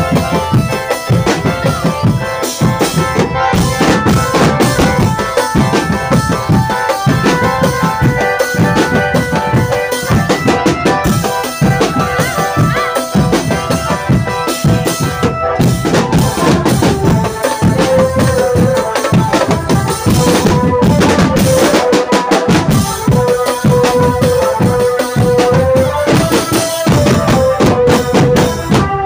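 Live drumband music: a dense, driving drum rhythm under a melody line with long held notes, loud and continuous.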